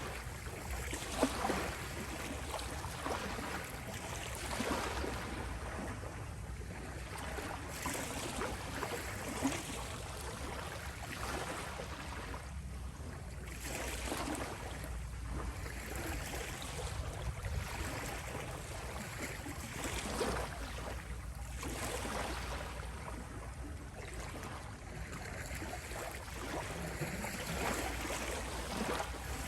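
Gentle ocean waves washing onto a shore, a steady surf hiss that swells and eases every few seconds.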